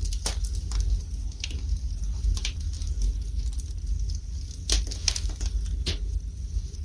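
Wood fire burning in a fireplace, crackling and popping at irregular intervals over a low, steady rumble, with a cluster of sharper pops about five to six seconds in.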